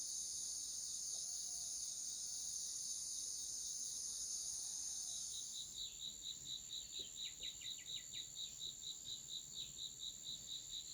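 Insects, crickets or the like, shrilling in a steady high-pitched drone. About halfway through, a regular high chirp starts, pulsing about three times a second, with a few short falling notes under it.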